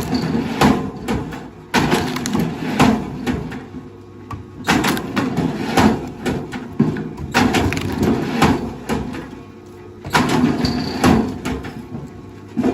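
Wood cracking and crunching under a heavy machine, in repeated bouts about every two to three seconds, over the machine's steady engine hum.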